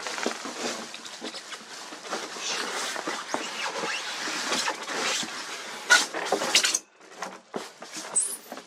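Rustling, scraping and knocking of packaging as a boxed electric scooter is pulled out of its carton, with one sharp knock about six seconds in.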